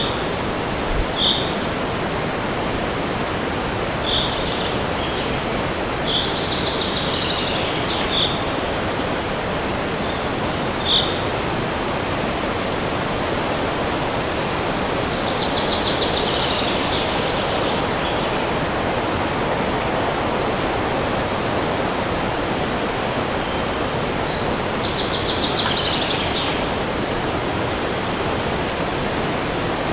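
Steady rushing of wind through a forest, with songbirds calling over it: short high chirps every few seconds and three longer trilled phrases spread through.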